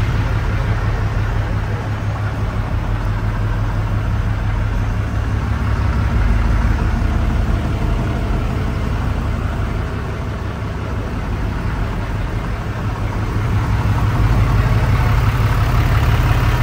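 Car engine running steadily with a low, pulsing rumble, getting a little louder in the last few seconds.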